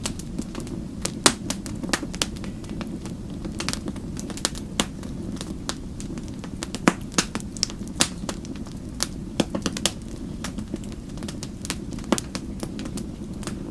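Wood fire crackling: irregular sharp pops and snaps, a few of them loud, over a steady low rumble of the burning fire.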